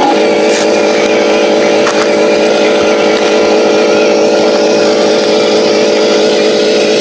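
Radio-controlled Scania 770S logging truck running, giving a steady engine-like drone that holds one pitch.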